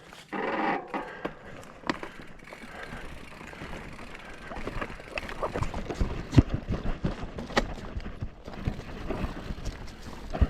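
Mountain bike riding over a rocky trail: tyres knocking and clattering over stones and the bike rattling, in many irregular knocks over a steady rough rolling noise, with the sharpest knock about six seconds in.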